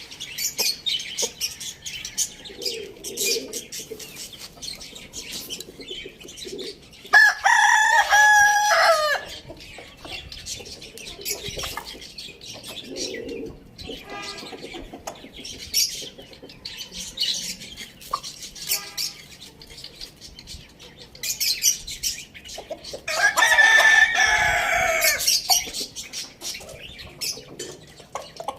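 Rooster crowing twice, about seven seconds in and again near the twenty-three-second mark, each crow lasting about two seconds. Between the crows, chickens cluck quietly over a run of short clicks.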